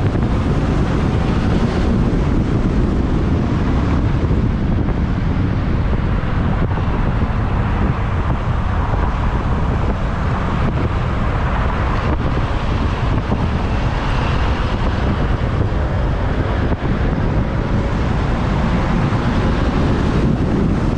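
Steady wind rumble on the microphone of a moving motorbike, with the bike's engine and the surrounding road traffic running underneath.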